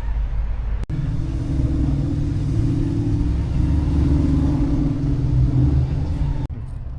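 A car engine running steadily with a low note. It cuts in abruptly about a second in and cuts off abruptly near the end.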